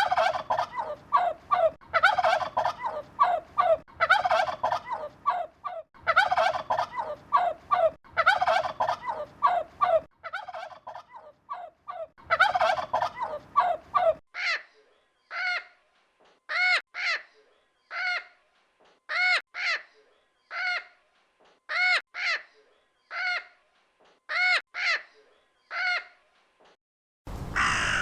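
Turkey gobbling in rapid, rattling runs over a light background hiss for about the first half. Then a different bird gives a series of short, clear calls, about one a second and often in pairs.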